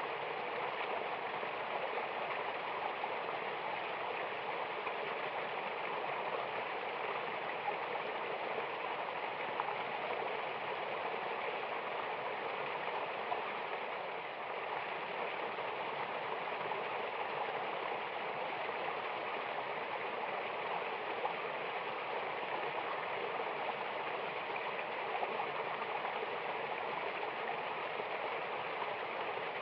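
Mountain waterfall: water rushing and splashing in a steady, unbroken wash of sound.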